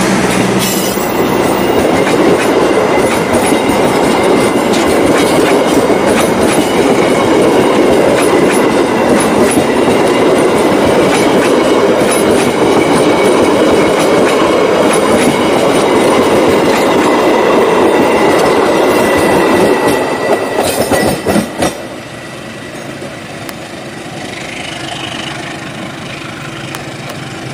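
Passenger train coaches running past close by: a loud, steady rumble of steel wheels on the rails with a thin high ring. About three-quarters of the way through the sound drops sharply after a few knocks, leaving a quieter running sound as the last coach moves away.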